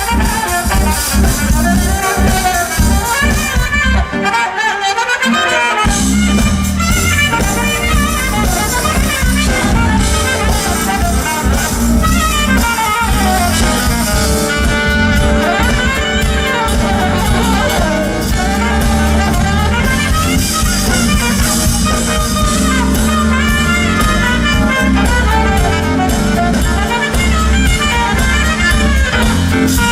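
Live smooth jazz band playing, with saxophone lead lines over bass and drums. The bass and low end drop out for about two seconds around four seconds in, then the full band comes back in.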